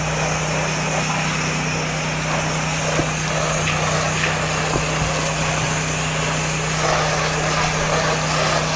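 Pressure washer engine running steadily with a constant hum, under the hiss of water spraying from the wand.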